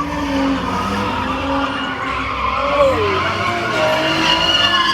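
Car doing a burnout: the engine is held at high revs while the rear tires spin and squeal against the pavement.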